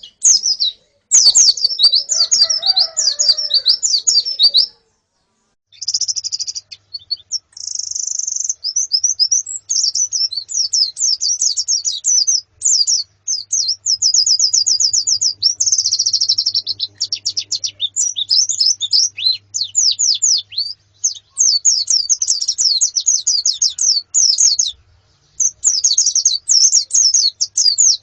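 White-eyes (pleci) calling: female and flock calls in a near-continuous stream of rapid, high-pitched chirps and twitters. There is a short break about five seconds in and a brief pause near the end.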